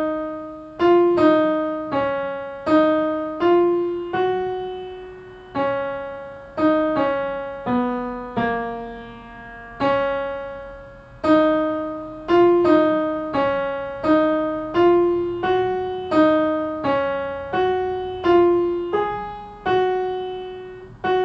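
Piano playing a single-line melody in F-sharp major, starting on D-sharp: about two dozen separate struck notes in a steady rhythm, each dying away before the next.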